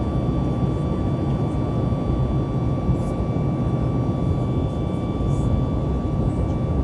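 Boeing 737-800's CFM56 jet engines and airflow during takeoff or climb: a steady deep rumble with a constant high whine over it.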